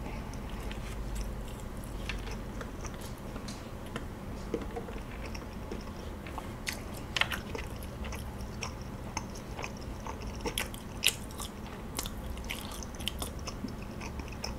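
A person chewing and biting kaya toast close to the microphone: soft wet mouth sounds with scattered sharp clicks and crunches from the toasted bread, over a faint steady low hum.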